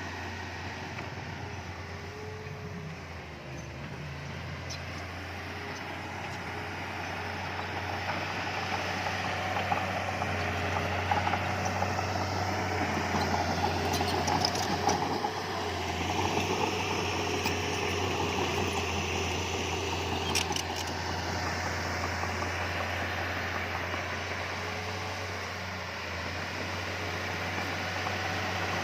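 Heavy diesel earthmoving machine engine running steadily, getting louder about a third of the way in as it works, with a few brief sharp metallic clinks near the middle.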